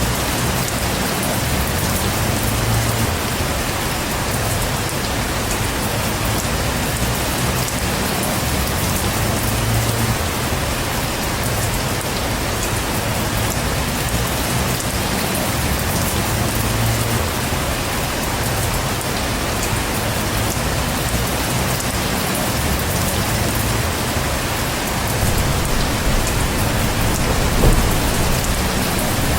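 Heavy rain falling steadily, with recurring low rumbling swells underneath, and a brief sharp crack a little before the end.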